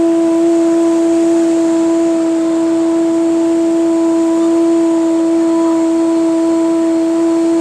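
A woman toning: her voice holds one long, steady note that stays level in pitch without a break.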